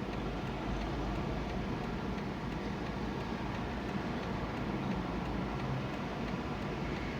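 Car cabin noise while driving: a steady engine hum under even road and tyre noise.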